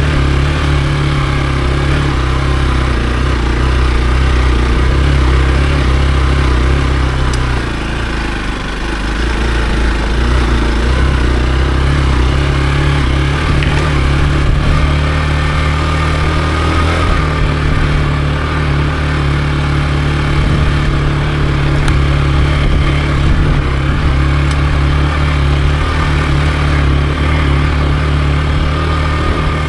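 Hero XPulse 200 4V's single-cylinder engine running under way at a steady pace. It eases off for a couple of seconds about eight seconds in, then pulls steadily again.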